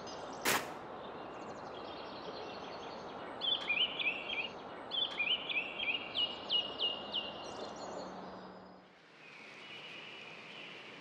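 Outdoor ambience with a steady hiss, a sharp snap about half a second in, then a bird chirping in a quick series of short rising notes for a few seconds. Near the end the background drops to a quieter, airier hush.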